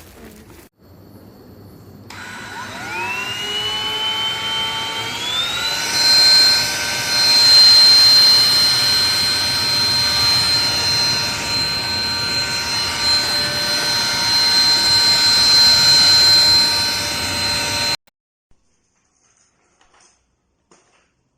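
Russell Taylors V5 cordless vacuum cleaner's motor spinning up with a rising whine about two seconds in, climbing to a higher pitch a few seconds later, then running with a steady high whine. It cuts off suddenly a few seconds before the end.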